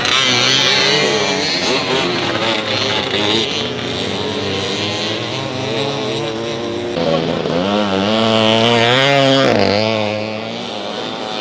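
Several vintage two-stroke motorcycle engines racing, revving up and down on and off the throttle. The loudest is about eight to nine seconds in, where one engine's pitch climbs, then drops sharply and climbs again.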